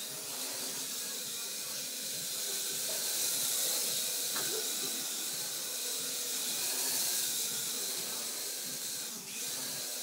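Small RC quadcopter's four electric motors and propellers running steadily, a high whirring hiss that swells and eases a little in loudness.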